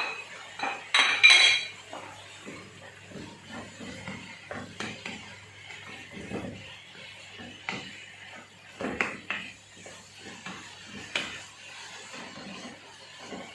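Kitchen utensils and dishes clinking and knocking in irregular, short taps, with the loudest clatter about a second in. This is typical of seasoning being added and mixed into chicken.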